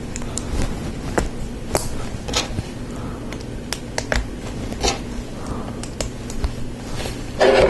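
Lego Technic plastic parts being handled and snapped together: irregular small clicks of pins and lift arms being pressed into place and pieces picked up, with a louder burst of handling near the end.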